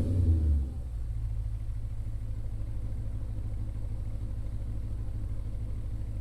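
Audi B7 RS4's 4.2-litre V8 dropping back from a rev in the first second, then idling steadily with a low rumble. The exhaust has its centre resonator removed and straight pipes fitted, with the exhaust valves open.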